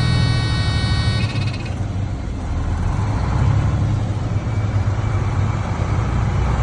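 Diesel engine of a 2000 Freightliner FLD truck tractor running steadily, with a high-pitched whine over it that cuts off under two seconds in.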